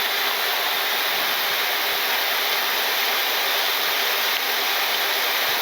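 Steady rushing air noise on the flight deck of a Boeing 737-800 in cruise, with a faint steady hum underneath.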